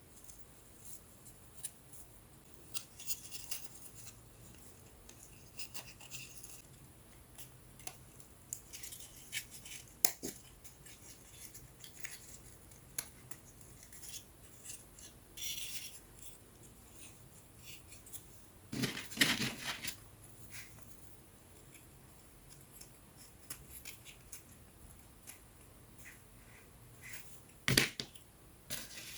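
Small laser-cut wooden puzzle pieces handled and fitted together: scattered light clicks, taps and rubbing, with a louder clatter about two-thirds through and a sharp knock near the end.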